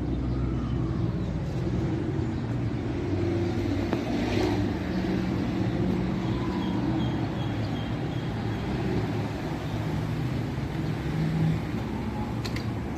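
Steady low mechanical drone with a constant hum in it, and a couple of sharp clicks near the end.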